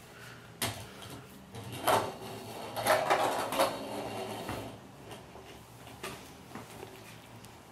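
A toy monster truck rolling and clattering down a toy ramp: a few sharp knocks, then a rattling stretch about three seconds in. No engine noises are made for it.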